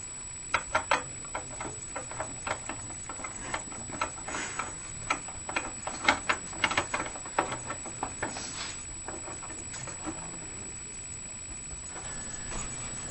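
A run of irregular light clicks and taps, uneven in spacing and loudness, that dies away after about eight seconds, leaving a faint hiss.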